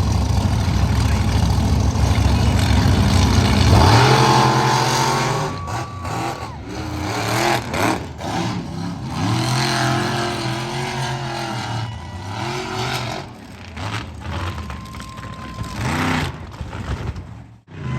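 Monster truck engine running steadily, then revving up and down again and again from about four seconds in.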